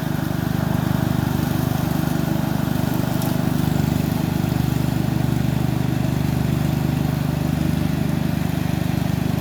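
Craftsman 14 hp overhead-valve riding lawn tractor engine running steadily under load while mowing, mower deck engaged.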